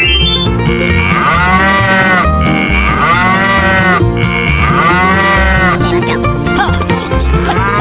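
Children's background music with a steady beat, over which several long cow moo sounds rise and fall in turn.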